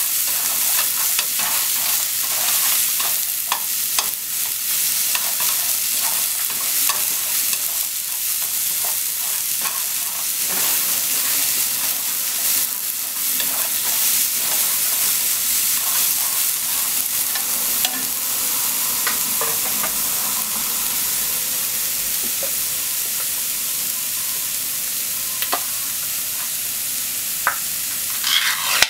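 Sliced Japanese long onion and onion sizzling as they sauté in a nonstick frying pan, stirred with wooden cooking chopsticks that click and scrape against the pan. The clicks come thickly in the first half and thin out later. A brief louder burst comes near the end.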